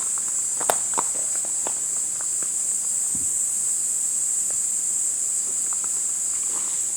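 Insects keeping up a steady, high-pitched chorus, with scattered small clicks and knocks over it, two sharper ones about a second in.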